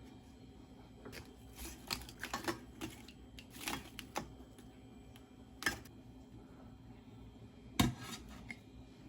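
Kitchen utensils and dishes clinking and knocking during cooking: a run of short sharp knocks in the first half and a single louder knock near the end, over a steady low hum.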